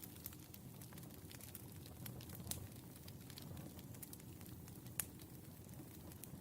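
Wood fire burning: a low steady rumble with scattered sharp crackles and pops. The two loudest pops come about two and a half and five seconds in.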